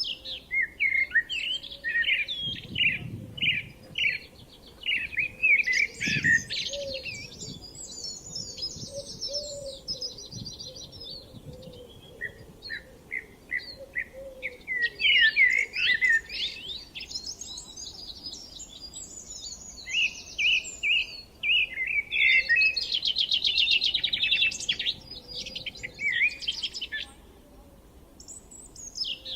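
Songbirds singing, a run of fast chirping and warbling phrases a few seconds long with short pauses between them.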